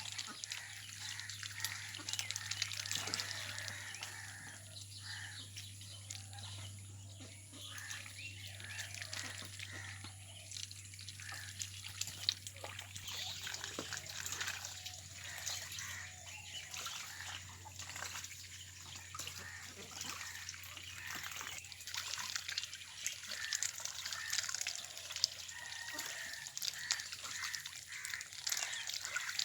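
Ducks splashing and dabbling in shallow water: a steady patter of small splashes and drips, with a low steady hum underneath.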